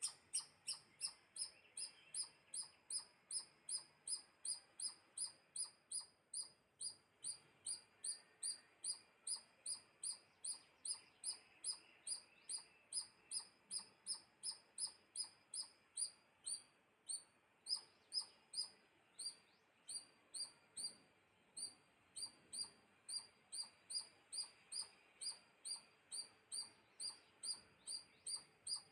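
A small animal's high-pitched chirp call, one short down-sweeping chip repeated very evenly about two and a half times a second, with a brief break near the middle.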